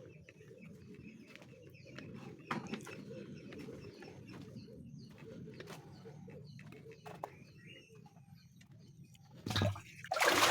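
A flock of hens murmuring and clucking low, with scattered small clicks. A loud rush of noise breaks in near the end.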